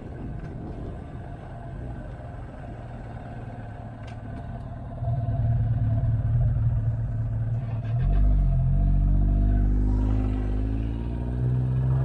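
Motorcycle engine running under wind rumble. It gets louder about five seconds in, and from about eight seconds its pitch rises steadily as the bike accelerates.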